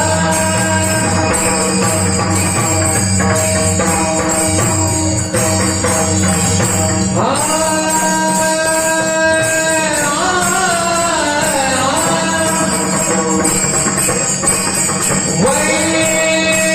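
Warkari devotional bhajan music: steady held accompanying notes under continuous jingling percussion. About seven seconds in, a singer enters with a long held note that wavers and winds down, and a held note returns near the end.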